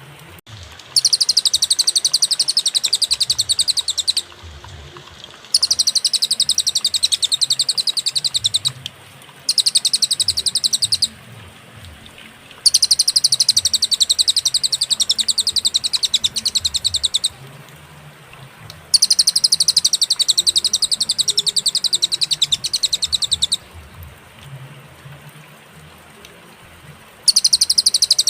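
Cililin songbird singing in bouts of very rapid, high, trilled chatter, each lasting a few seconds and separated by short pauses, six bouts in all.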